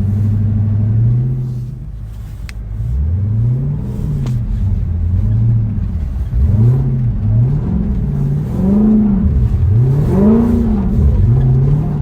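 Dodge Charger Hellcat's supercharged 6.2-litre V8 running steadily at first, then revving up and dropping back several times as the car is driven.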